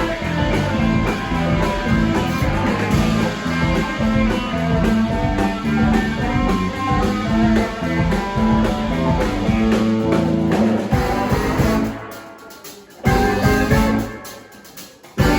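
Live band playing guitar-led rock music. About twelve seconds in the band drops out, one loud hit about a second later rings away, and the full band comes back in near the end.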